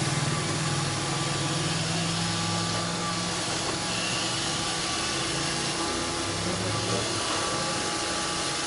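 Roomba 531 robot vacuum running: a steady motor whir and even hiss with a few faint steady tones, with no starts or stops.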